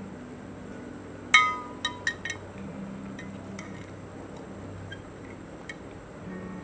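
A spoon clinking against a glass of tender coconut sarbath: one ringing clink, two more quick clinks just after, then a few light taps.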